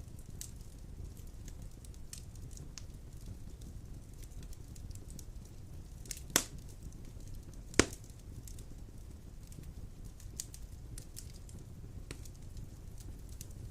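Large logs burning in a wood fireplace: a steady low rumble of flames with scattered light crackles, and two loud sharp pops a second and a half apart about halfway through.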